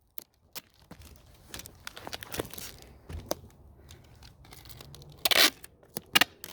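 Packing materials being handled: scattered crinkling and rustling, with one short, loud tearing sound about five seconds in.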